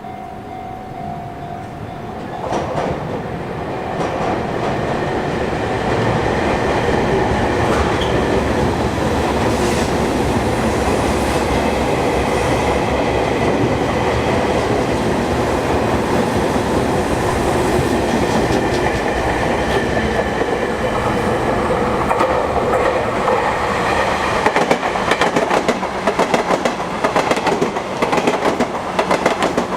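Sotetsu Line electric train passing close by: its running noise builds over the first few seconds and then holds steady. In the last few seconds it breaks into rapid clacking of wheels over rail joints.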